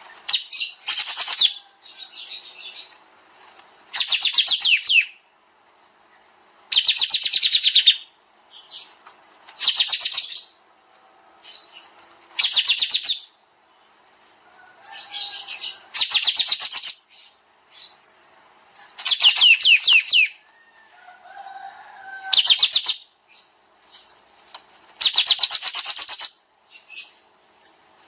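A kapas tembak songbird singing in rapid trilled bursts, each about a second long and high-pitched, repeated every two to three seconds with softer twittering between.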